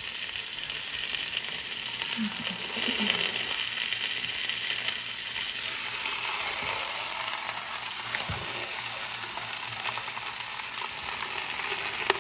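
Cabbage and peppers sizzling in hot olive oil in a pot, a steady hiss with a few faint clicks.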